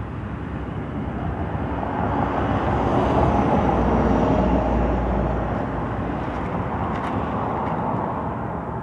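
A motor vehicle going past, its noise swelling for a few seconds and then fading away.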